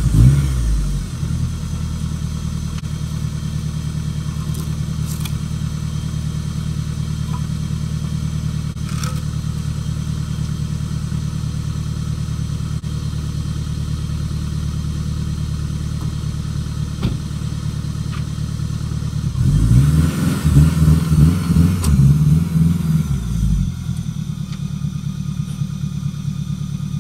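Turbocharged Acura RSX engine idling steadily. About twenty seconds in it rises in a few short, uneven throttle surges as the car is driven slowly over the dip in the driveway, then drops back to a quieter idle near the end.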